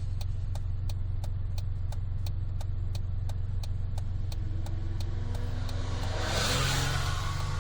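Honda Life JB5's exhaust through a Rosso Modello GT-8 aftermarket muffler, heard from inside the cabin with the window open while driving. It is a steady low drone, with a fast even ticking of about four or five clicks a second. About six seconds in, a rush of hiss swells up and fades as the engine note starts to rise.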